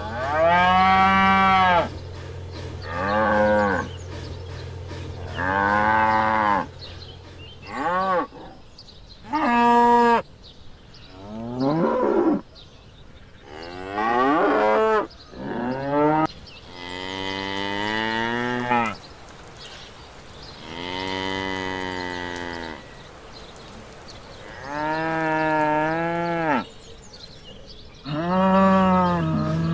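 Cattle mooing: about a dozen separate moos of differing pitch and length, some rising then falling.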